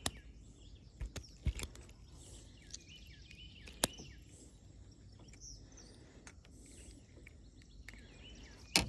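Birds chirping, with a few sharp knocks and clicks breaking in, the loudest near the end.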